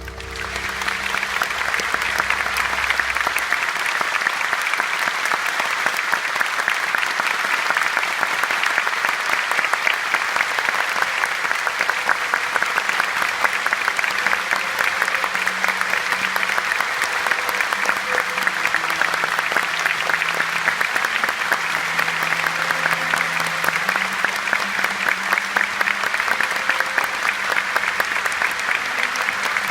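Large concert-hall audience applauding steadily, swelling up in the first second as the last piano notes die away.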